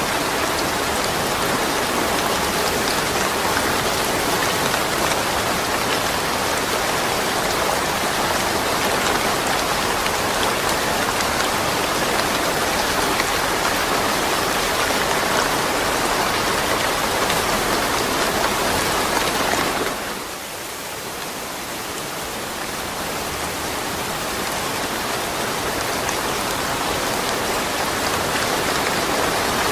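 Steady, heavy rain falling, a dense even hiss. About two-thirds of the way through it suddenly drops in level, then slowly swells back.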